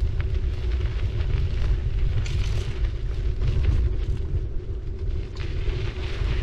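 Riding noise from a city bicycle rolling along: a heavy low rumble of wind and road on the bike-mounted camera's microphone, a steady hum, and tyre hiss that swells briefly partway through.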